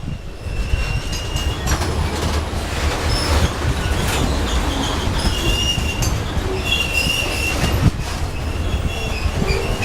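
Freight train rolling downhill past, a steady low rumble of the wagons with high-pitched wheel squeal coming and going.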